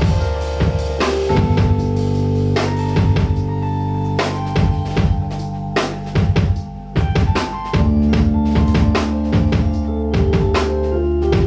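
Live band playing an instrumental passage: a drum kit with kick and snare over a held bass line and sustained chords. The band briefly drops out about six and a half seconds in, then comes back in with the drums.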